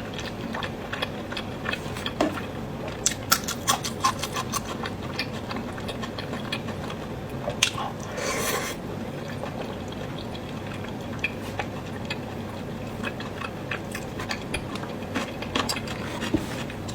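Close-up eating mouth sounds: wet chewing and lip smacks, heard as many irregular sharp clicks, with one longer, noisier sound about eight seconds in.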